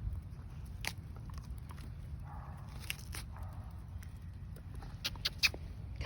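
A dog chewing a wooden stick: scattered sharp cracks and crunches, with a quick cluster of them about five seconds in, over a steady low rumble of wind on the microphone.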